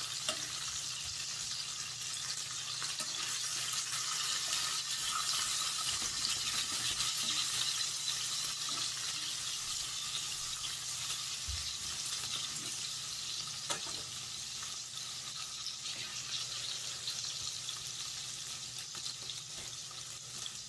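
Fish frying in oil in a pan: a steady sizzle over a low-to-medium flame, with an occasional faint click.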